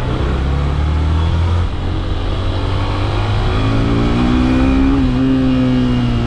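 Yamaha FZ S V3's 150cc single-cylinder engine running while riding, its note rising as the bike accelerates in the second half.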